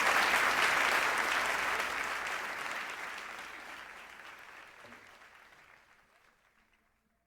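Audience applause at the end of a song, fading out steadily to silence over about six seconds.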